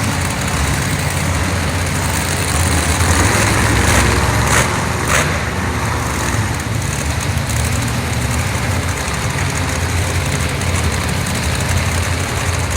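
Monster truck engine idling with a steady, deep rumble. Two short, sharp sounds cut through about four and a half and five seconds in.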